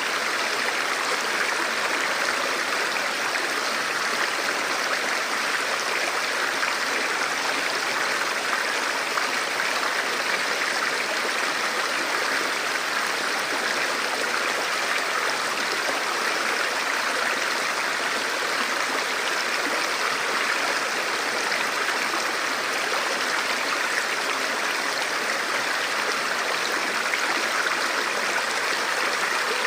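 Forest stream flowing over rocks: a steady, even rush of running water with no breaks.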